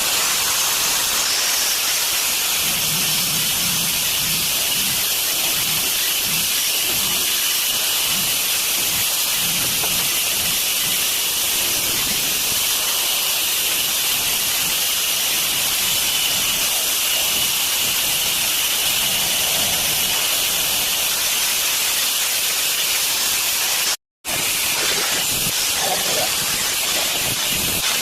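Water running steadily from a newly fitted tap, a constant hissing rush broken once near the end by a brief cut.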